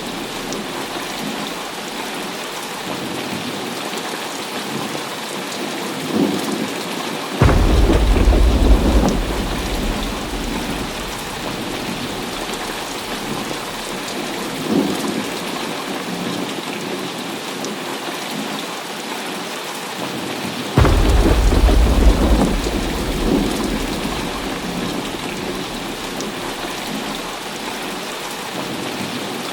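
Heavy rain falling steadily in a thunderstorm. There are two loud thunderclaps, about 7 and 21 seconds in. Each starts suddenly and rumbles away over several seconds, with fainter rumbles between them.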